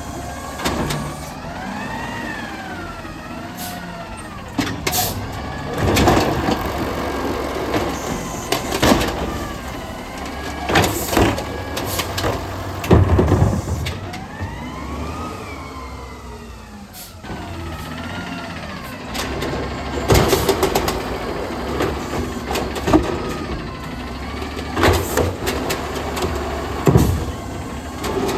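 Garbage truck working: its engine and a whine rise and fall in pitch several times, with repeated loud clanks and bangs.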